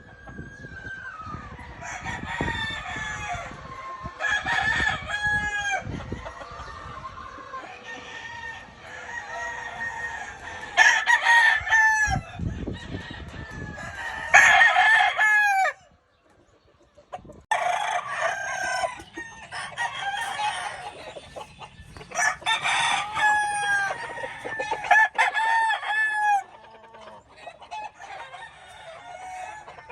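Many gamefowl roosters crowing over one another, long calls overlapping and answering each other, with clucking between them. The sound drops out briefly about halfway through, then the crowing resumes.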